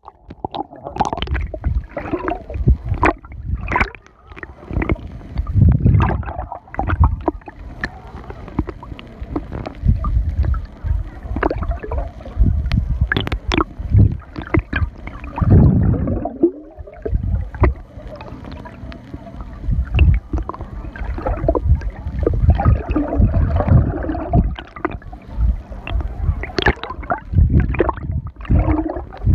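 Seawater sloshing and splashing in irregular surges close to the microphone, with sharp slaps among heavier rushes.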